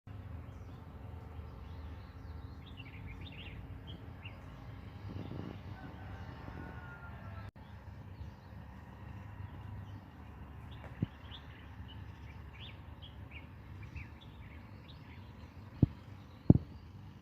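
Small birds chirping repeatedly over a steady low outdoor rumble, with a few sharp knocks near the end.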